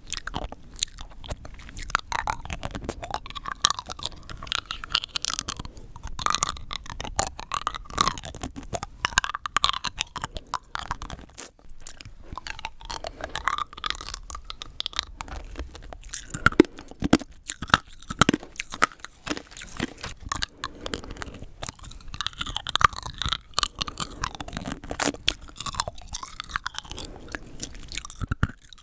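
Rock candy being bitten and chewed close to the microphone: sugar crystals cracking and crunching between the teeth in a dense, irregular run of sharp crunches.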